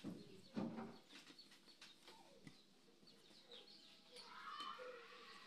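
Near silence, with faint bird chirps in the background. Two soft knocks near the start come from hands rolling a strip of chapati dough on the table.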